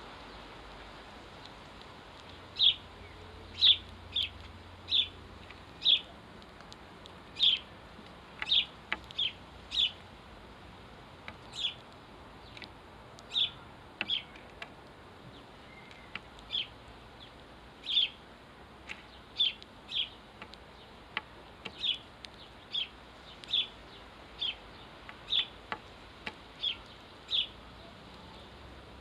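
House sparrow chirping: a long series of short, single chirps, about one to two a second, starting a few seconds in.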